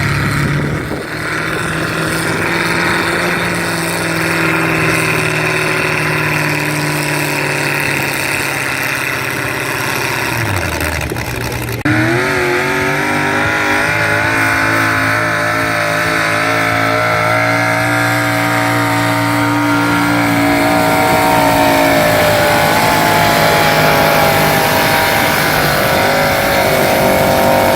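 Modified two-wheel-drive pulling truck's V8 engine running loud and steady, then jumping abruptly about twelve seconds in to a higher, louder pitch that is held at high revs to the end.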